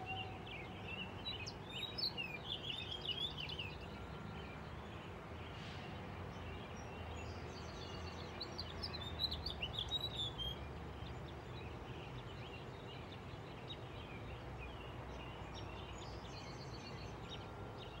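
Wild birds singing outdoors: bursts of short chirps and trills, once a few seconds in and again around the middle, over a steady low background rumble.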